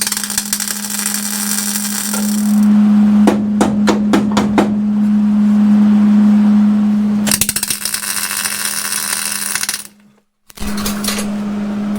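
Electric arc welding on a car frame: the arc crackles in two runs of a couple of seconds each, over a steady welder hum. Between the runs come a quick series of hammer strikes on the frame flange, and a few more follow near the end.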